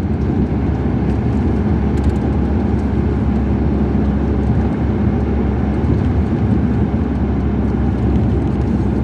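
Steady low rumble of a car driving along: engine and road noise, even throughout.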